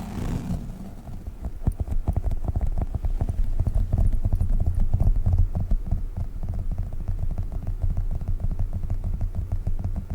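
Globbles, sticky squishy toys, handled close to the microphone: a dense run of rapid, irregular taps, heavy in the low end, which gets busier about a second and a half in.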